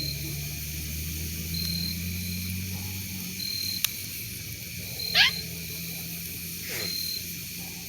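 Night-time outdoor ambience: a short high chirp repeats about every second and a half, a single pop comes just before four seconds in, and a brief, sharply falling squeal just after five seconds is the loudest sound. A low hum fades out about halfway through.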